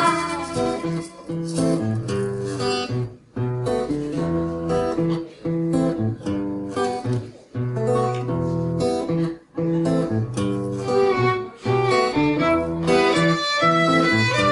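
Instrumental break of a song: acoustic guitar strumming chords with a violin playing over it. The playing stops briefly a few times.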